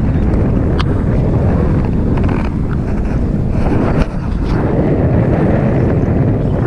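Wind buffeting the microphone, a steady, loud rumbling noise, with a faint click about a second in and another about four seconds in.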